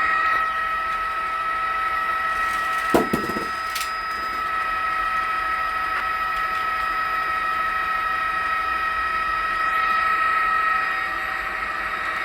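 News helicopter's cabin noise: a steady high whine of two tones over a rushing hiss, with a brief thump about three seconds in.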